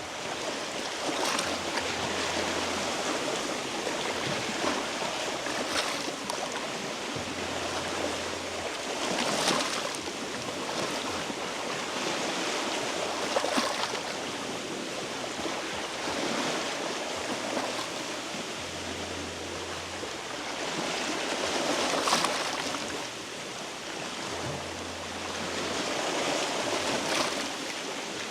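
Sea waves washing over rocks, with a sharper splash every few seconds as a wave breaks.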